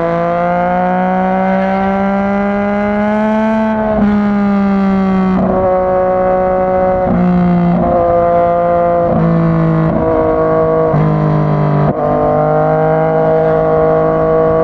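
Yamaha MT-09's 847 cc inline-three engine and exhaust under hard acceleration, holding a high, buzzing note. From about four seconds in, a run of quick gear changes each briefly breaks the tone before it picks up again.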